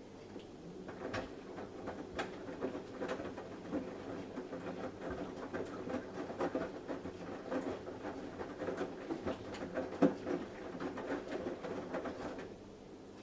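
Samsung Eco Bubble washing machine drum turning during a cotton wash, with wet laundry tumbling in a steady run of irregular soft knocks and patters. There is one louder thump about ten seconds in, and the drum stops near the end.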